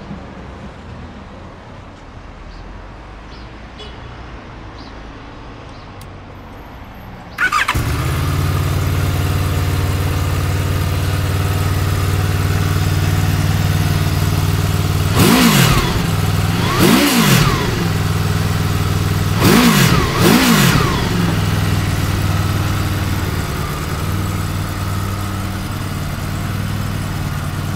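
A 2015 Honda Crossrunner 800's V-four engine with an Akrapovic exhaust starts about a quarter of the way in and settles into a steady idle. In the middle it is blipped four times in two quick pairs, each rev rising and falling back, then idles to the end.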